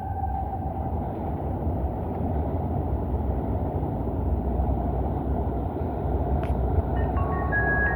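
Steady low rumble of a MARTA rapid-transit train running. A few short faint tones come in near the end.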